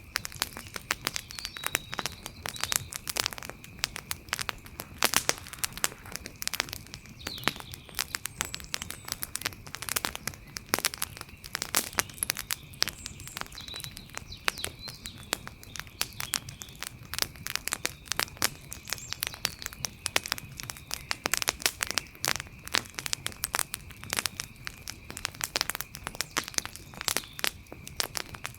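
Campfire crackling: a dense, irregular run of sharp pops and snaps. Behind it are a faint steady high tone and a few short chirps.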